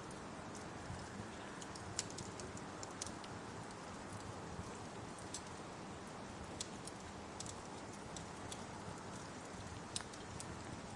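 Steady rain hiss mixed with a wood fire crackling, with sharp pops of burning wood at irregular intervals.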